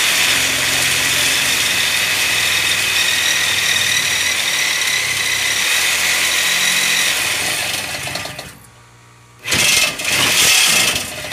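Reciprocating saw (Sawzall) cutting through a steel exhaust pipe to take off a car's muffler: it runs steadily for about eight seconds, stops briefly, then cuts again for a couple of seconds near the end.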